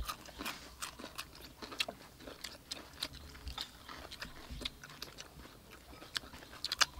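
Several people biting and chewing crispy battered fried chicken breast, a busy run of small crunches and crackles.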